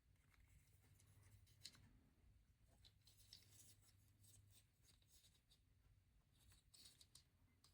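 Near silence: a few faint, scattered clicks of plastic LEGO pieces being handled and pressed together, over a low steady hum.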